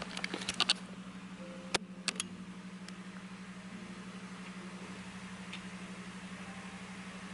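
Steady low hum inside a vehicle's cabin, with a few sharp clicks in the first second and two or three more about two seconds in.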